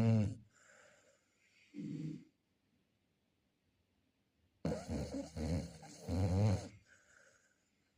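Chow chow dog snoring in its sleep. A snore tails off at the start, a short snort comes about two seconds in, and after a pause a long snore runs from about five to seven seconds in, each followed by a faint breathy exhale.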